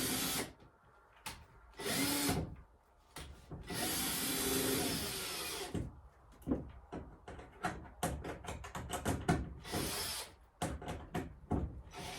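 Power drill running in short bursts, the longest about two seconds, driving out fasteners to dismantle an old wooden chicken roost. About six seconds in, it gives way to a run of sharp knocks and clicks as the loosened wood is worked free.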